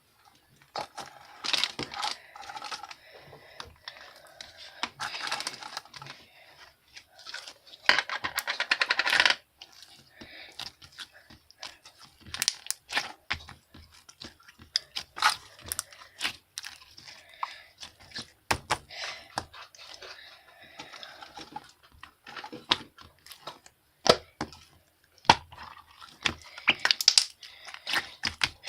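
Close handling noises in a small room: irregular clicks and taps with short rustling, tearing-like bursts, and a fast run of clicks about eight seconds in.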